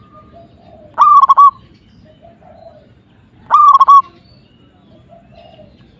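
Zebra dove (perkutut) cooing: two short loud phrases about two and a half seconds apart, each a quick rising note that breaks into a few rapid stuttering coos.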